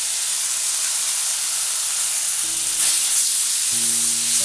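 Onion paste sizzling steadily as it goes into hot oil in a kadai, on top of spice powders fried until the oil separates.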